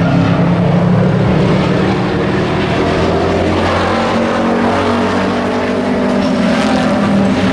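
Engines of several stock race trucks running at speed in a heat race: a steady, loud blend of engine notes that drift up and down in pitch as the trucks circle the track.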